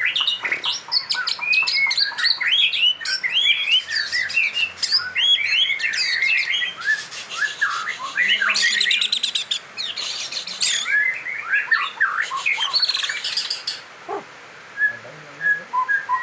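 White-rumped shama (murai batu) singing a fast, varied song of quick whistled and chirping notes, mixed with harsher rattling phrases in the middle, thinning to a few sparse notes near the end.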